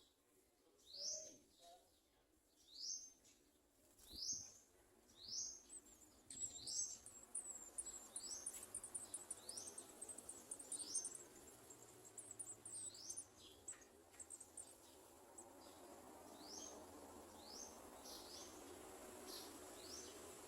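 Garden sunbird (olive-backed sunbird) calling: a short, sharp rising note repeated roughly once a second, with a fast run of very high chips for several seconds from about six seconds in.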